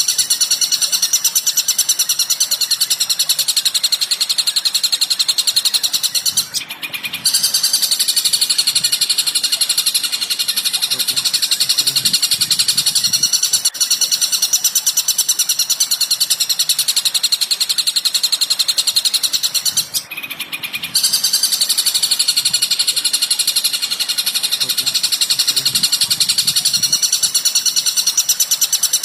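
Recorded songbird chirping played as a masteran training track: a dense, very rapid, continuous chatter of high notes, broken by two short pauses, about six and twenty seconds in.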